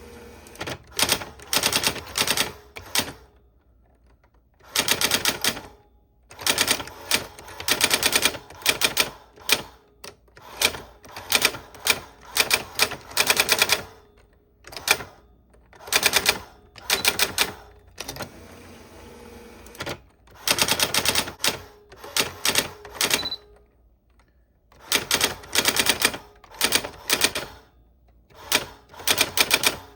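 Manual typewriter being typed on: rapid runs of sharp key strikes in bursts of a few seconds, broken by short pauses.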